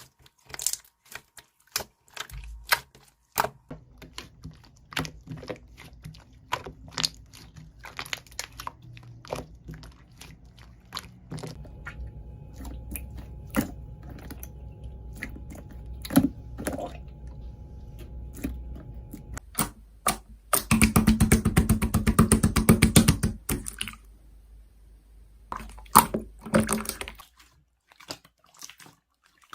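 Irregular sharp clicks and taps, with a dense, fast run of taps about two-thirds of the way through, over a low hum.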